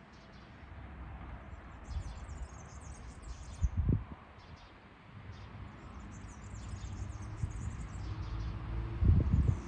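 Small birds chirping, over a low outdoor rumble that swells in the second half, with two brief louder low thumps, about four seconds in and near the end.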